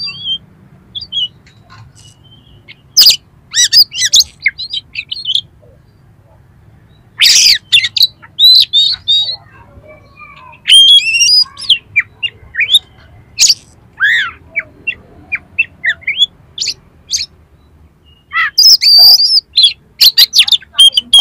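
Oriental magpie-robin (kacer) singing in rough, harsh snatches: short sharp chirps, rasping squawks and quick whistled slides in irregular bursts, with short pauses between bursts.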